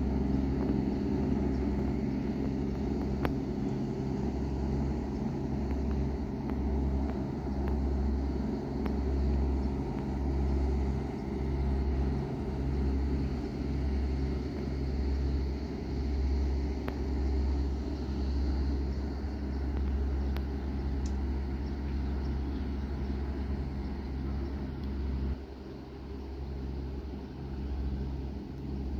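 Low, steady drone of ship diesel engines as the work boats head away, with wind gusting on the microphone.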